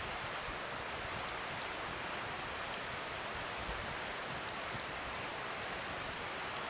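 Wood fire burning with a steady hiss and frequent small sharp crackles and pops.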